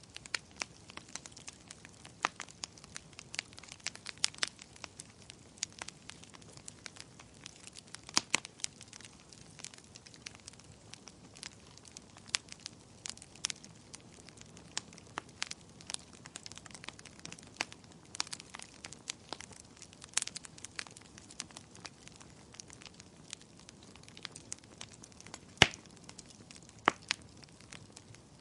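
Wood fire crackling in a fireplace: irregular sharp pops and snaps over a soft steady hiss, with a louder pop near the end.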